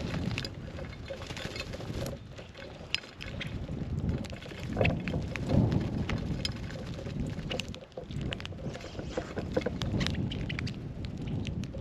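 Uneven low rumble of wind on the microphone, with scattered short taps and clicks.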